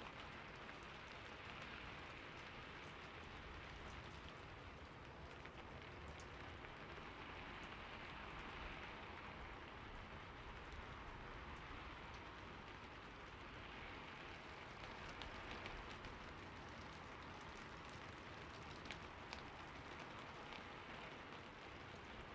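Steady rain falling on a roof: a soft, even patter with scattered individual drop taps.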